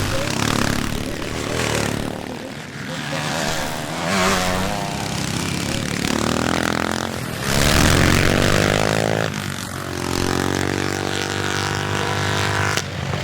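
Classic motocross motorcycles racing, engines revving up and falling back as they pass. About the middle one engine climbs in pitch, and near the end it holds a high steady rev, then drops off suddenly.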